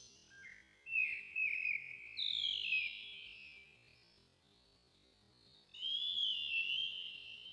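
Birdsong played back slowed down: long, wavering warbled phrases, one sliding down in pitch, then a pause of about two seconds before a last phrase near the end.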